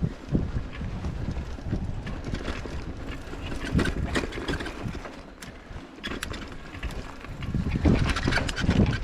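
Wind buffeting the microphone of a bicycle-riding camera: an uneven low rumble with scattered clicks, dipping quieter about five to six seconds in.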